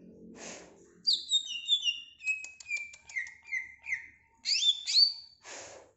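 Cucak ijo (green leafbird) singing: a quick run of high, downward-sliding whistled notes mixed with sharp ticks. A short rushing noise comes shortly before the song starts and again just after it ends.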